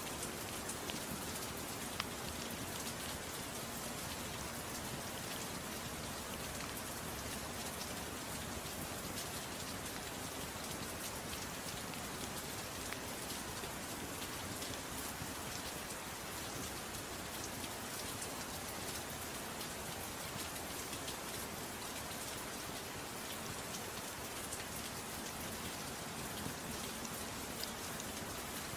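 Steady soft rain falling, with scattered faint crackles and ticks through it.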